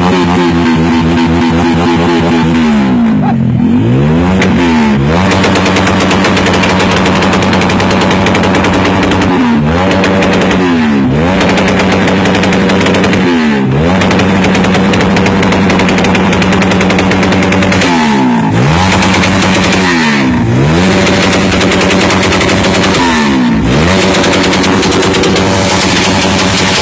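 Honda CB motorcycle with a loud open exhaust running fast, the exhaust cracking in a rapid stream of sharp pops like machine-gun fire. About six times the revs drop briefly and climb back.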